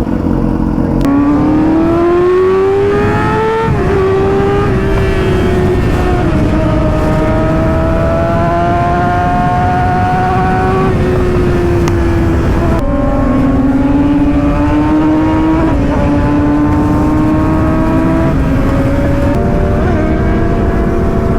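600cc sportbike engine accelerating through the gears, its pitch climbing in each gear and dropping at each upshift, several times over, with wind rushing over the microphone.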